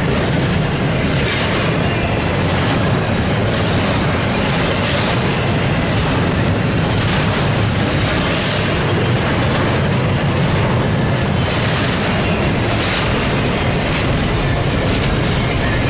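Double-stack intermodal container train passing: a steady rumble and clatter of steel wheels on rail, swelling every second or two as each car's wheel sets go by.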